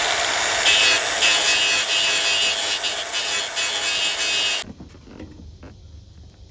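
Welder welding a bracket onto the front end: a loud, even hiss with a few short breaks, stopping suddenly a little before five seconds in.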